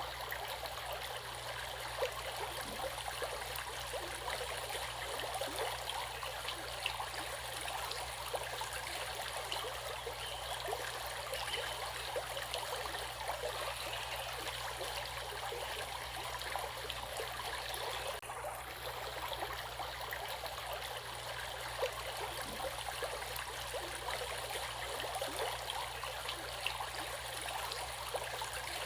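Water flowing steadily in a stream, a constant rushing babble with small splashes scattered through it.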